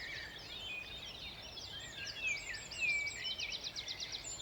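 Several songbirds singing at once in the dawn chorus: overlapping whistles and chirps, with a fast trill of repeated notes about three seconds in.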